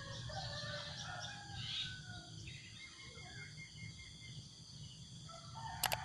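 Chickens calling, with a rooster crowing, over a steady low outdoor hum; a short sharp clatter comes near the end.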